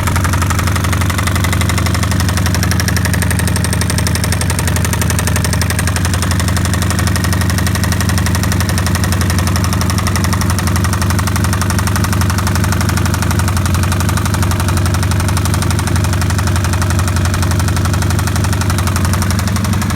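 2005 Kawasaki Vulcan 1500 V-twin engine idling steadily with a loud, rhythmic knocking from the lower engine case. The knock follows running the engine without oil and then overfilling it, which points to internal damage in the bottom end.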